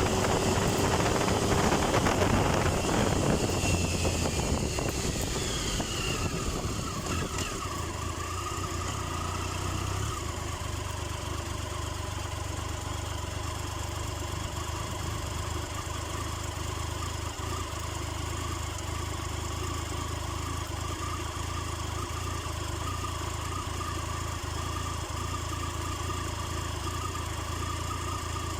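Triumph Tiger 1050's three-cylinder engine as the motorcycle slows, wind and engine noise falling away over the first several seconds. It then idles steadily.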